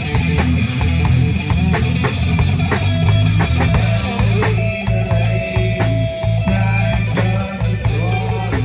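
Live rock band playing, with electric guitar and bass over a drum beat.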